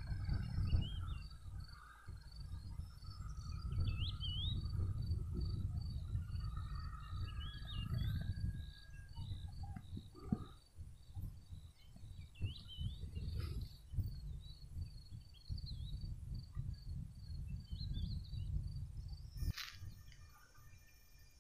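Birds outdoors giving short rising chirps every few seconds, over a steady high pulsing trill and a low rumbling noise on the microphone. A single sharp click comes near the end.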